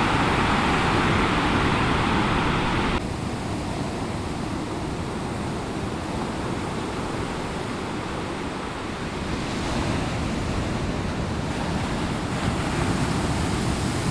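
Heavy typhoon swell surf breaking on the shore: a continuous rushing wash of waves. It drops suddenly about three seconds in and builds again in the last few seconds.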